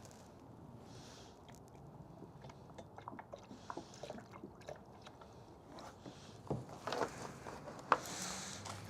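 Scattered small clicks and crinkles of a plastic coolant container being handled while more coolant is measured out. The clicks grow busier in the last few seconds, with one sharp click near the end.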